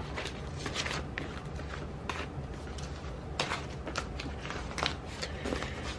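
Light clicks and rustles of paper stickers and small desk items being handled and moved, scattered irregularly over a steady low hum.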